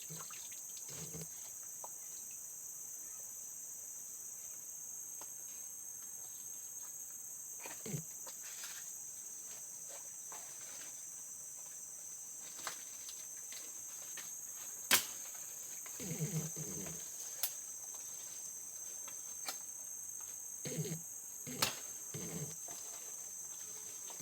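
A steady, high-pitched chorus of insects drones without a break, broken by a few sharp clicks, the loudest about halfway through, and a few short low sounds.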